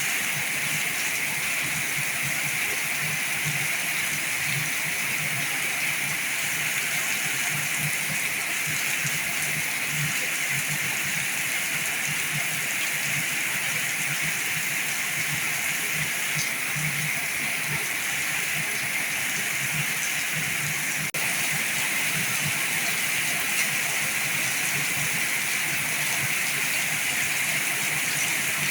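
Heavy rain falling steadily, an even hiss, with a momentary break about two-thirds of the way through.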